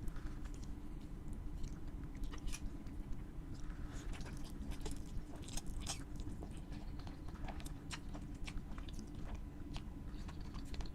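Close-miked chewing and biting of crispy fried food, with many irregular crunches and crackles.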